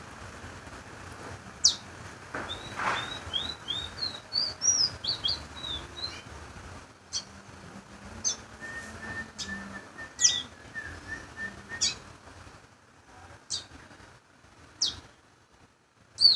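A small red songbird singing: sharp, high, downward-sweeping chirps every second or two, a quick twittering run of notes a few seconds in, and a softer, thinner trill in the middle.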